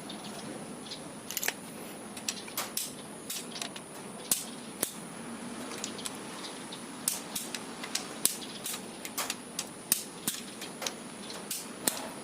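Torque-wrench ratchet clicking in short, irregular runs as engine bolts are tightened in stages toward 55 Nm.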